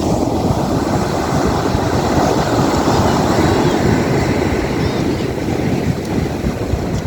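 Wind buffeting the microphone, a loud, steady low rumble, with a few faint bird calls in the background.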